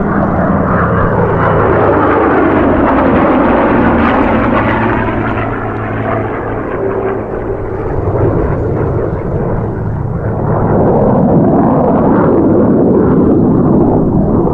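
Loud aircraft engine noise from a military display flight passing overhead. It eases off about halfway through and builds again near the end.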